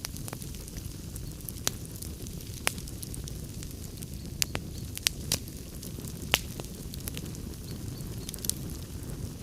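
Wood fire burning in a fireplace: a steady low rumble of flames with irregular sharp crackles and pops from the logs, a few of them louder, near the middle.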